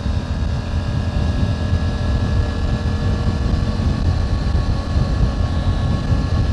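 Triumph Tiger 900 GT Pro's inline-three engine running steadily at cruising speed, with wind rushing over the microphone.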